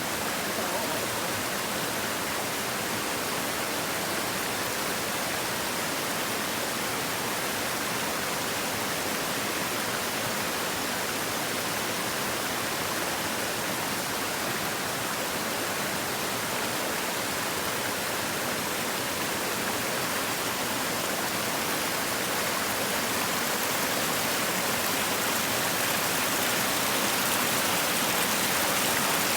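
Steady rushing noise of water, an even hiss with no distinct events, growing slightly louder near the end.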